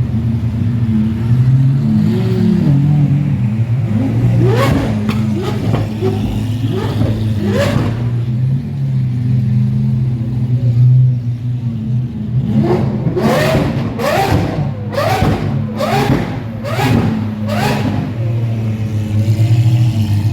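Supercar engines idling with repeated sharp throttle blips. A few revs come about four to eight seconds in, then a quick run of about six revs in a row in the second half.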